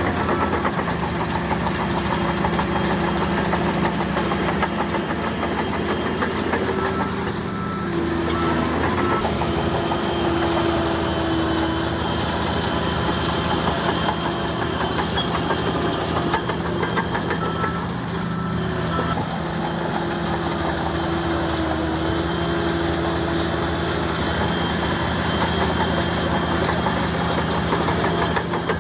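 Heavy diesel engine of a bulldozer running steadily, its pitch shifting slightly a couple of times.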